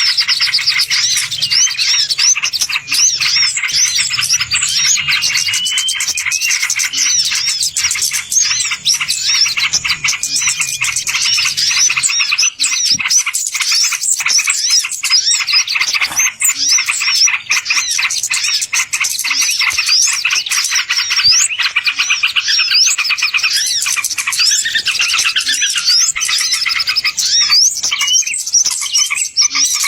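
Dense, unbroken chorus of small birds chirping rapidly, many short high calls overlapping: a bird-lure (pikat) call recording.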